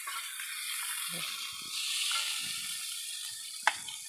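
Tempeh in sweet soy sauce sizzling in a wok, a steady hiss that swells about halfway through, with a few soft bumps of the pan being handled and one sharp knock near the end as the spatula scoops it out.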